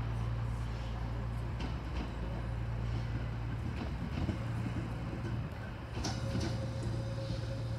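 Passenger train rolling slowly over the points: a steady low hum with occasional clacks of the wheels over the rail joints, and a faint whine coming in about six seconds in.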